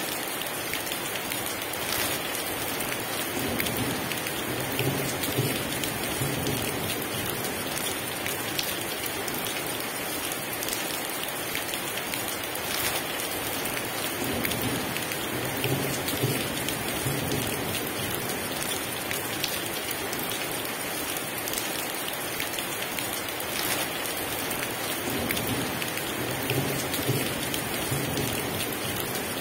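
Heavy rain pouring steadily, with low rolls of thunder rumbling three times, about ten seconds apart.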